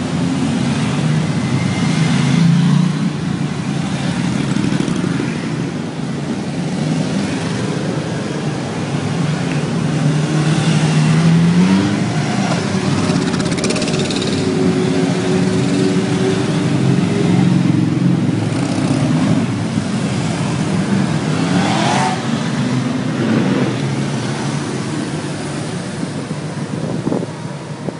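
Motorcycle engines running as bikes ride by, the pitch rising and falling as they rev, with one clear rise in pitch about a third of the way in.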